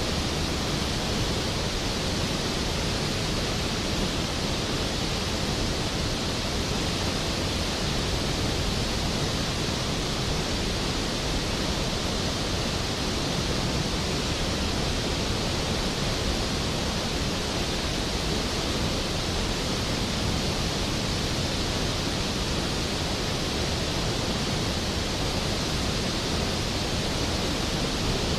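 Skógafoss waterfall, a large waterfall fed by a glacial river, with its water crashing down in a steady, even rush.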